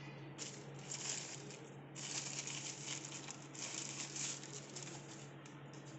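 Rustling and crinkling of packaging being handled, in three stretches of a second or so each, trailing off into lighter rustles near the end.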